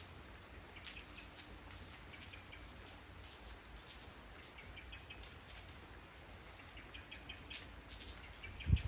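Steady rain falling, with individual drops ticking close by and a bird chirping briefly a few times. A short low thump comes near the end.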